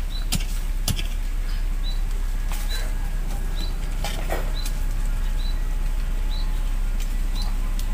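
A bird repeating a short high chirp roughly once a second, over a steady low rumble, with a few sharp clicks.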